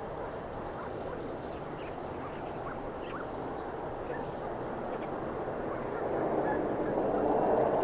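Airliner jet engine noise: a steady distant rumble that grows louder over the last couple of seconds as an aircraft comes nearer. Faint, short bird calls chirp over it.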